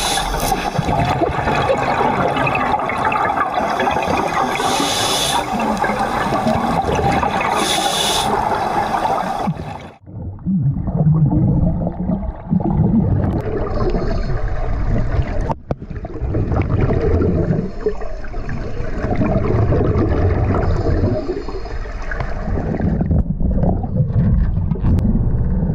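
Loud rushing water, then after a sudden cut about ten seconds in, a low rumbling roar.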